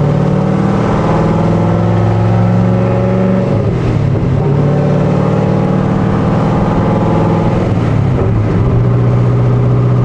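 Cammed C6 Corvette V8 running loud through long-tube headers, an X-pipe and dual exhaust, with a BTR Stage 3 camshaft. It holds at a steady engine speed, dips briefly about a third of the way in, and then picks up again.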